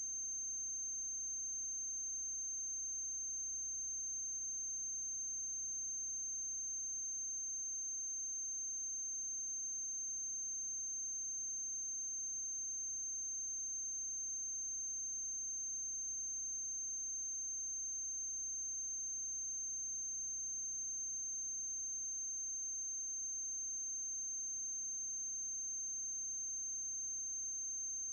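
Steady electrical noise with no live sound: a constant high-pitched whine, a low mains hum and faint hiss, unchanging throughout. This is the noise floor of a transfer of a silent film.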